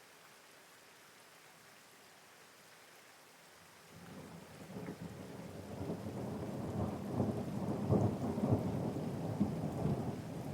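Steady rain, then about four seconds in a long roll of thunder builds into a deep, crackling rumble. It is loudest a little past the middle and still rolling at the end.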